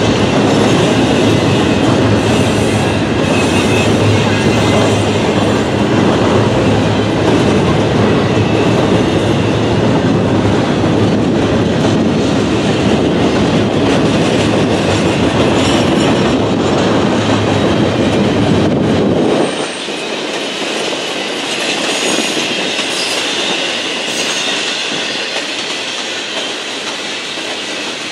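Double-stack container train rolling past: steel wheels running on the rails, with a steady clatter of the cars going by. About two-thirds of the way through, the deep low rumble cuts out suddenly and the sound becomes quieter and thinner.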